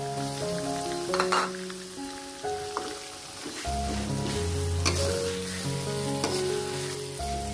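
Squid frying in chili sambal in a wok, sizzling, while a metal spatula stirs and scrapes the pan a few times. Background music plays over it, with a bass line coming in about halfway.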